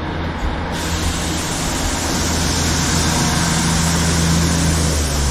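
Class 150 Sprinter diesel multiple unit running, its diesel engine giving a steady low drone, with a loud hiss of train noise that starts abruptly about a second in.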